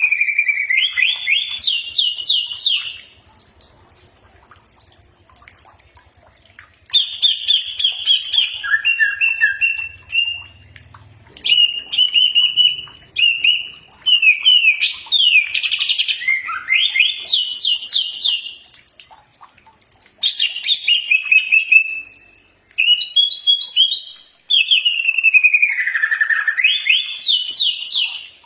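Leafbird (cucak ijo) singing loud bouts of varied whistles, falling notes and rapid trills, with short pauses between the bouts, the kind of song played as a training master for captive birds.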